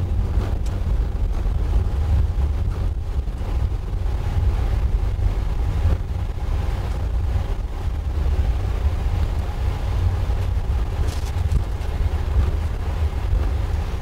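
Steady low rumble inside the cockpit of a Boeing 777-200 rolling out on the runway after landing, slowing through 60 knots.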